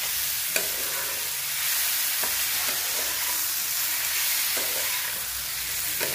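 Chopped onion, capsicum and tomato frying with masala in a kadhai, sizzling steadily, while a metal spatula stirs and scrapes them, knocking against the pan now and then.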